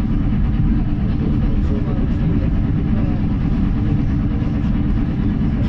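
Steady low rumble of a moving electric commuter train, heard from inside the carriage.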